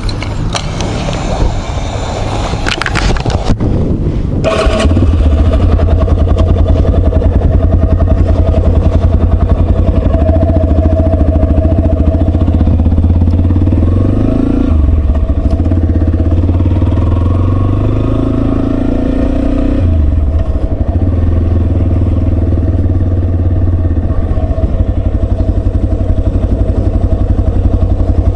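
Yamaha Serow 250's single-cylinder engine running, first steady at low power, then louder from about four seconds in as the bike gets under way, with a couple of brief dips midway.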